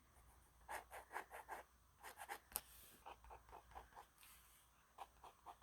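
Faint scratching of a drawing tool on sketchbook paper: a quick run of about five short strokes a little under a second in, then more scattered short strokes.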